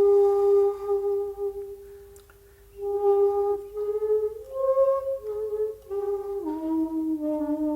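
Solo shakuhachi, the end-blown bamboo flute, playing a slow phrase. A long held note fades away, and after a short gap about two seconds in a new phrase steps up and back down before settling on a lower held note near the end.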